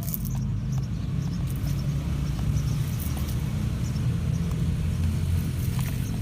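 Small RC truck's electric motor and drivetrain running steadily, with light clicks and crackles of its tyres working over dirt and stones.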